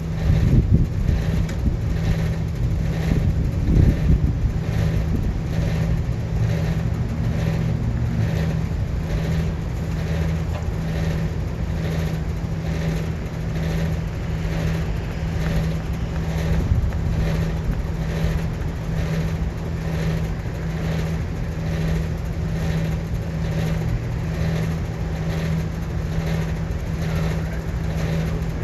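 Refrigerant recovery machine running steadily, a steady hum with a regular pulse about three times every two seconds, as it pulls refrigerant out of the freezer's system. A couple of knocks sound in the first four seconds.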